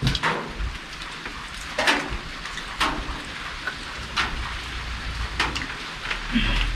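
Steady rain falling, with a few scattered sharp clicks and knocks. A low rumble comes in near the end.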